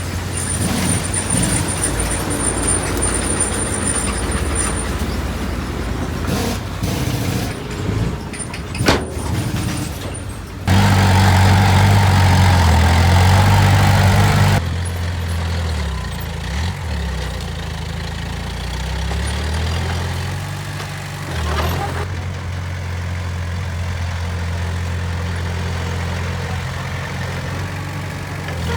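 Heavy diesel earthmoving machinery, dump truck and bulldozer engines, running steadily. Near the middle a much louder engine comes in abruptly for about four seconds, then drops away just as suddenly, and there is a single sharp knock a little before it.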